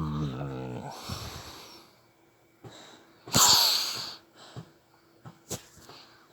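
A drawn-out pitched sound falling in pitch and trailing off within the first second or so. About three seconds in comes one loud, short sneeze-like snort, followed by a few faint clicks.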